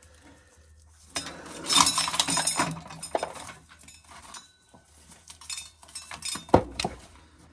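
Dried corn kernels being shelled and clinking into a coffee can: a dense rattle of clicks about a second in, then scattered single clicks.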